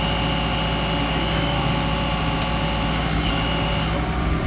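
Diesel engine of heavy machinery running steadily, with a steady high whine that stops near the end.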